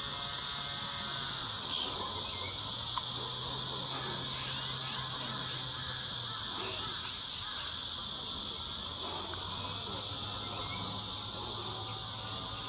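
Steady, dense insect chorus of crickets or similar grass insects, a continuous high shimmering trill. Two brief high chirps stand out about two and four and a half seconds in.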